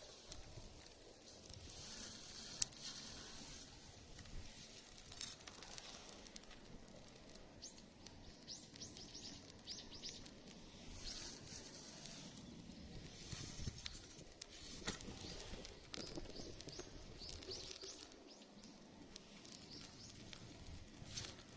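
Small birds chirping in quick runs of short high notes over a faint outdoor background, with a few sharp clicks scattered through.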